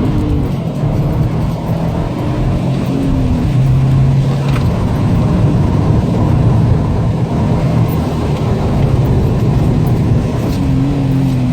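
Subaru Impreza WRX STI's turbocharged flat-four engine running hard on a race track, heard from inside the cabin. Its pitch rises and falls with throttle and gear changes over steady road and wind noise.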